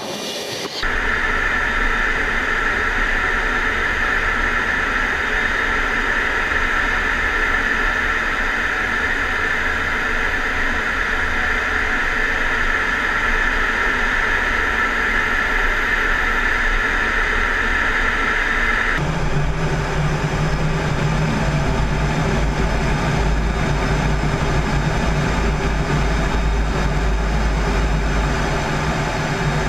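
Steady roar of jet engine and airflow noise inside a fighter cockpit in flight. A hissing layer in it stops abruptly about two-thirds of the way through, leaving a lower, steady hum.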